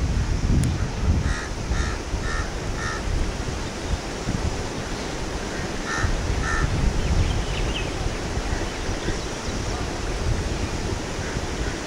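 Wind rumbling on the microphone, with birds calling at the waterside: a run of four short, evenly spaced calls about a second in, and two more about halfway through.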